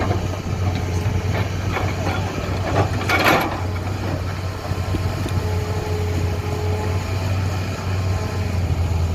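Heavy engine running steadily with a low drone, and voices calling out briefly about three seconds in.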